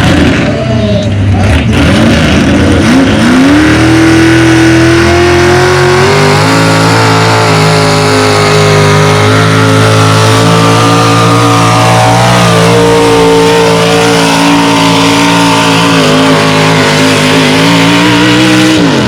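Alcohol-burning Pro Mod pulling-truck engine of just under 600 cubic inches in a 1972 Chevy short box, revving up over the first few seconds and then held at high rpm under load on a full pull. Its pitch steps up a little twice along the way, then the note drops away near the end as the throttle comes off.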